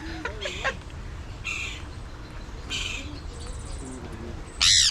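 Parrots squawking at close range: a few short, harsh calls, then one loud screech near the end.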